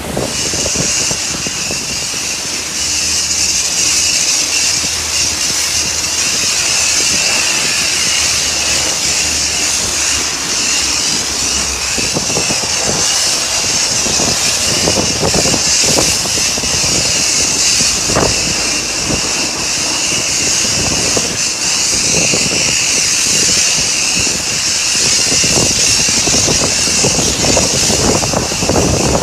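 High-pressure washer wand at a self-service car wash spraying a car with a loud, steady hiss and a thin whine. After about twelve seconds the spray hitting the bodywork adds irregular splashing.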